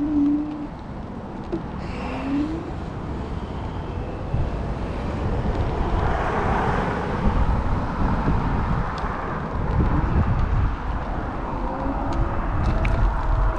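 Wind buffeting an action camera's microphone on a moving bicycle, with a motor vehicle passing about six seconds in. A bird coos briefly near the start.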